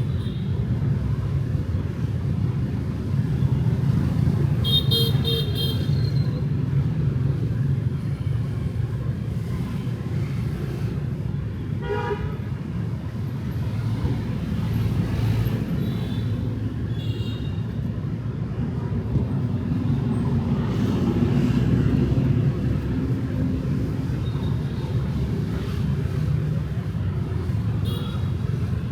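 Street traffic, mostly motorbikes, with a continuous engine and tyre rumble. Short horn toots sound over it: a strong one about five seconds in, a brief one near the middle, and a few lighter ones later.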